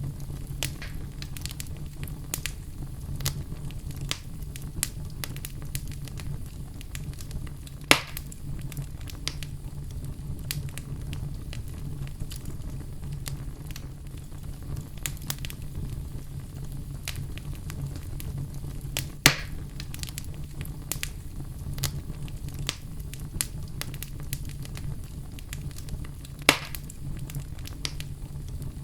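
Wood fire crackling, with frequent small snaps and three louder pops spread through, over a steady low rumble.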